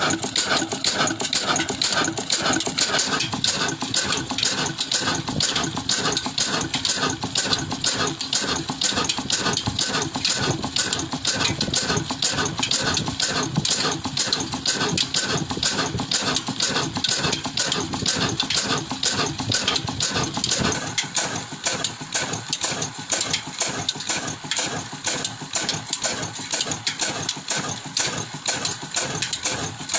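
Antique engine running steadily with a quick, even firing beat.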